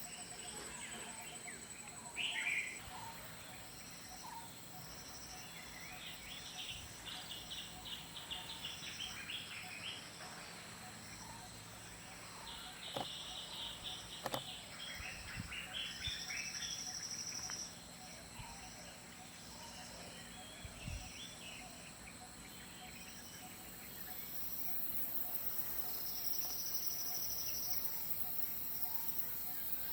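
Tropical forest ambience: birds chirping in short runs of calls and insects trilling, with a steady high-pitched insect tone underneath.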